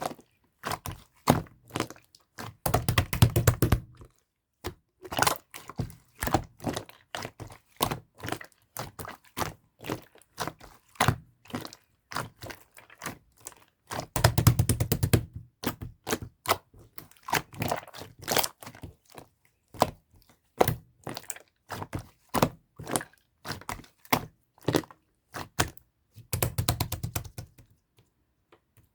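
Slime being poked and squeezed by hand, making a run of sharp clicks and pops, with three longer runs of dense crackling squishes: about three seconds in, in the middle, and near the end.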